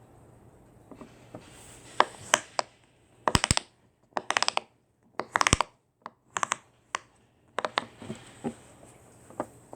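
A series of sharp clicks and taps, some single and some in quick rattling runs, like small hard objects being handled or knocked together.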